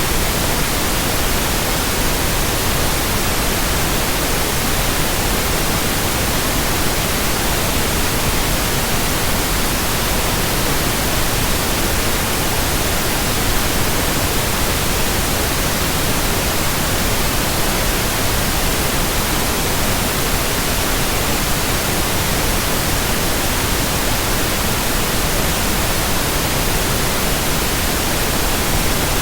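Steady, unchanging white noise: an even hiss spread across the whole range from deep to very high, with no rhythm, swells or separate sounds.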